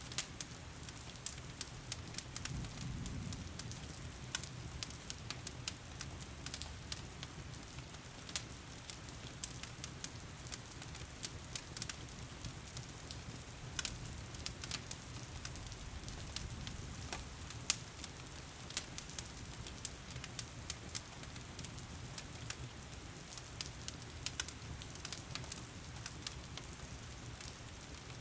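Wood fire crackling in a fireplace, with frequent irregular sharp pops, over the steady hiss of heavy rain and a low rumble.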